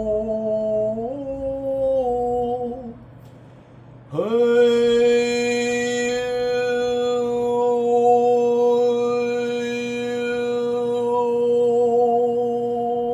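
A low sustained musical tone, two long held notes. The first steps up slightly about a second in and stops near three seconds. The second swoops up from below into pitch about four seconds in, with a breathy attack, and then holds steady.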